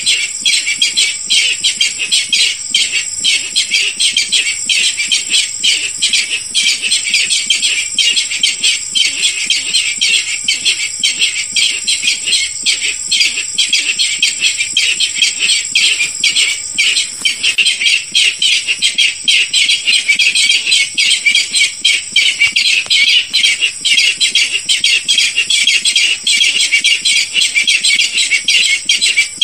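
Barred rail calling: a dense, continuous run of rapid harsh notes repeated without a break, used as a hunting lure call.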